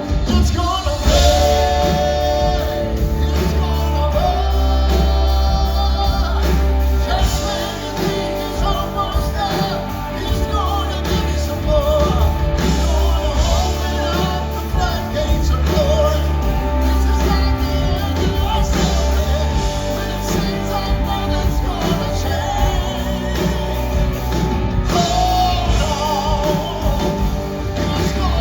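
A live gospel song: a lead singer over a full band with steady bass and drums.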